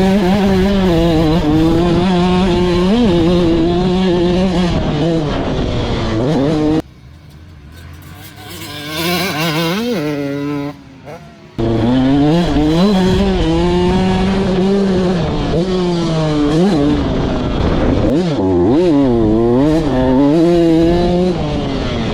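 Super mini motocross bike's two-stroke engine revving hard around the track, its pitch climbing and falling with throttle and gear changes. About seven seconds in it drops off sharply for a few seconds, then picks back up.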